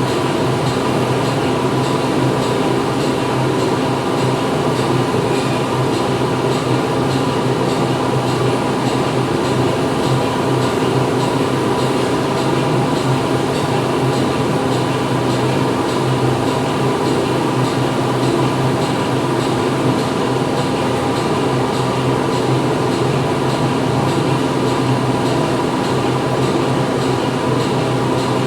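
Factory interior ambience: machinery running steadily, a constant mechanical drone with several fixed hum tones over an even noise, with no change in level.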